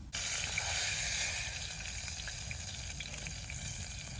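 Hot dogs frying: a steady sizzle with scattered small pops, starting abruptly at the very beginning.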